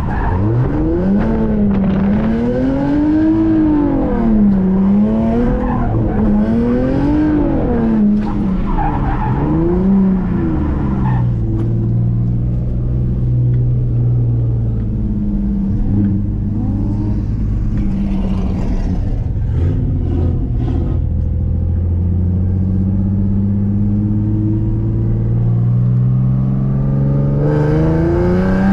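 Drift car engine revving up and down over and over for about ten seconds as the throttle is worked through a drift. It then runs at lower, steadier revs with slow climbs, and rises again near the end, with tires skidding.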